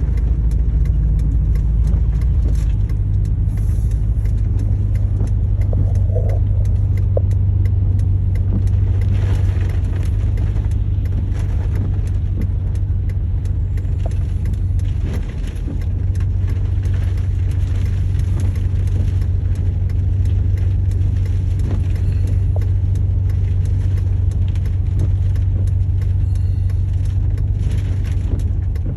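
Car driving on a highway: a steady low rumble of engine and road noise, easing briefly about halfway through.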